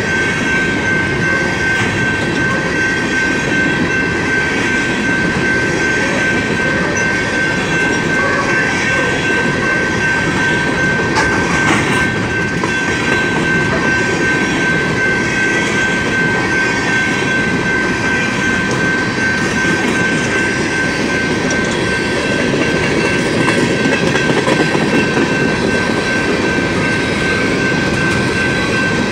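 BNSF coal train's hopper cars rolling past at a steady pace: continuous rumble and clickety-clack of steel wheels on the rail joints. A steady high-pitched tone rings over it.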